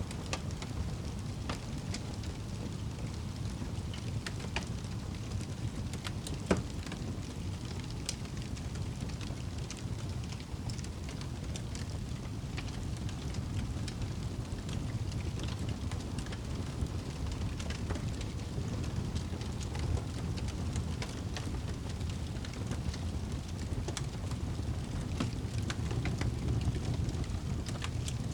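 Fire burning in a fireplace: a steady low rumble with scattered crackles and pops, one sharper pop about six and a half seconds in.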